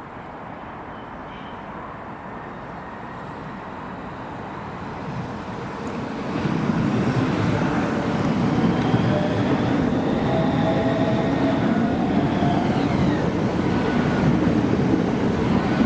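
A train approaching through the station, growing steadily louder until about six seconds in, then a steady loud rumble of wheels on rails as it runs along the platform, with a faint whine over it.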